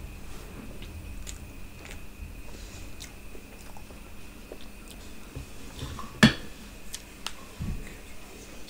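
Close-up chewing and biting sounds of a person eating biryani and chocolate cake by hand, with soft wet mouth clicks. A single sharp knock about six seconds in is the loudest sound.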